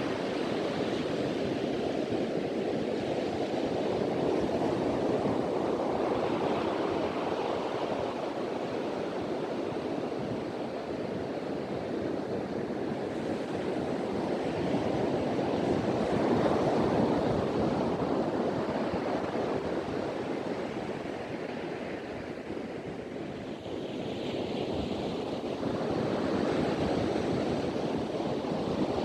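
Ocean waves breaking and washing on a beach, a continuous surf that swells and eases every few seconds, with wind on the microphone.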